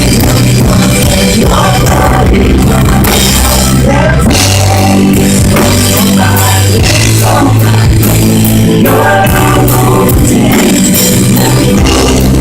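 Full-band contemporary worship music with drums, bass and guitar, in a passage with no clearly sung words.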